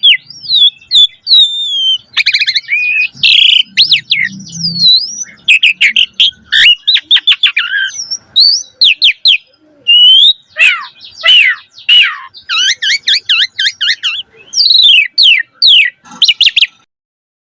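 Asian pied starling singing energetically: a fast, unbroken run of loud whistles, rising and falling notes and rapid chirping series. It breaks off suddenly about a second before the end.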